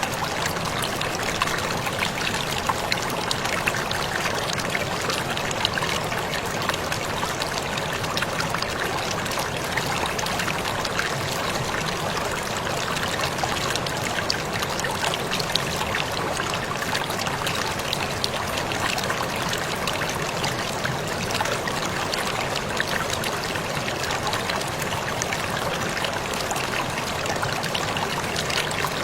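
Waterfall splashing steadily: an unbroken rush of falling water dotted with many small splatters and drips.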